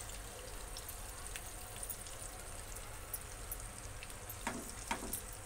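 Ground masala paste frying in hot butter and oil in a nonstick pan, with a steady fine sizzle and crackle. Two short spatula scrapes come near the end.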